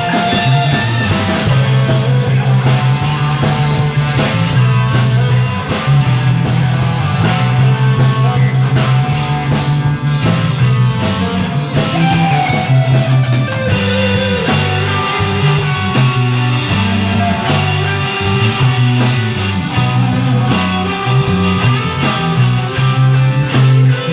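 Rock band playing live in a studio: electric guitars, bass guitar and a drum kit with steady cymbal beats, which drop out briefly about halfway through before the full band comes back in.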